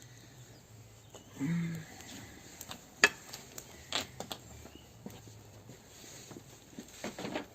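Small sticks and pieces of bark clicking and knocking as they are laid crosswise on a freshly lit campfire, a few sharp wooden clicks, the loudest about three seconds in and a quick cluster near the end.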